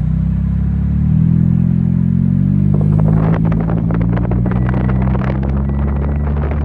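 Car engine revving up under load, its pitch climbing over the first few seconds. From about halfway through it is joined by dense crackling and crunching from tyres working in snow. The sound drops off abruptly near the end.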